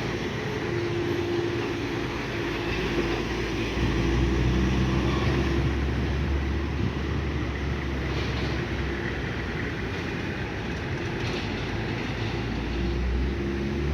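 Diesel engine of a loaded heavy truck running as it moves past, with a deep rumble that grows louder from about four seconds in.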